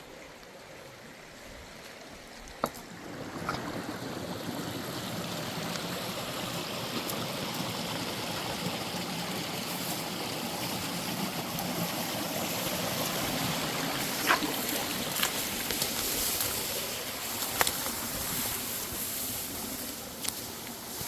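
Mountain stream rushing, a steady wash of water noise that swells about three seconds in and holds. A few sharp knocks stand out over it.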